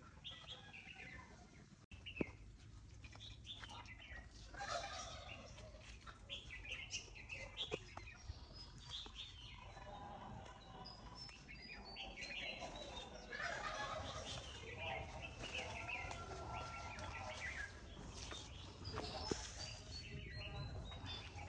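Faint bird calls, scattered all through, including two runs of short notes that fall step by step in pitch, with a single sharp knock about two seconds in.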